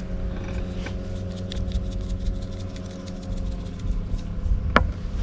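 Steady drone of a motorboat engine out on the river, with faint ticking throughout and one sharp click near the end.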